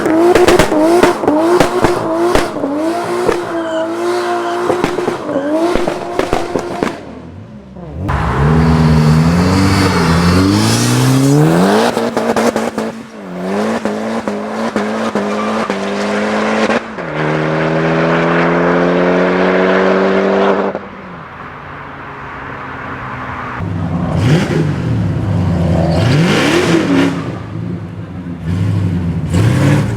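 A series of tuned performance car engines being driven hard. First an engine is held at high revs with its pitch wavering, against a string of sharp exhaust cracks and pops. Then engines accelerate, rising in pitch through several gear changes, and one holds a steady high-rev pull before cutting off.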